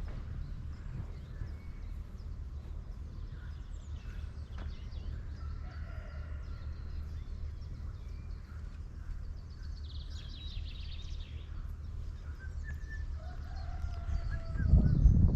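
Birds calling and chirping, with short whistles and a brief high trill, over a steady low rumble. The rumble swells much louder near the end.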